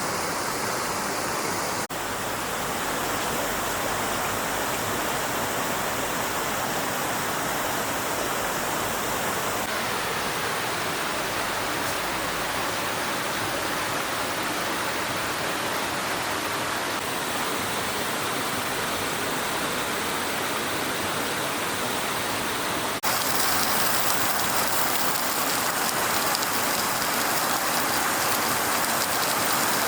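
Stream water flowing in a steady rush. Its character changes abruptly a few times as the recording cuts, and it is a little louder over the last several seconds.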